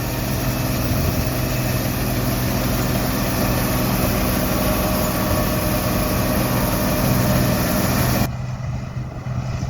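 John Deere 95 hillside combine running steadily, a constant engine hum under a loud even hiss of machinery and field noise. Near the end the hiss drops away abruptly, leaving the lower hum.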